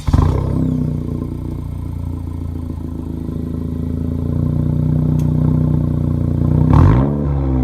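A 2017 Honda Civic Si's 1.5-litre turbocharged four-cylinder, heard through an exhaust with the mufflers removed and the resonator kept. It starts with a brief loud flare and settles into a steady idle, then revs up once and drops back near the end.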